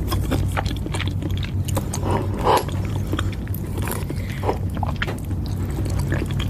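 Close-miked chewing of soft coconut custard pudding: a run of small wet mouth clicks and smacks, over a steady low hum.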